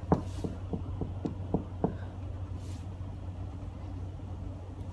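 Knocking on a cabin door: about seven quick raps in the first two seconds, with no answer, over a steady low hum.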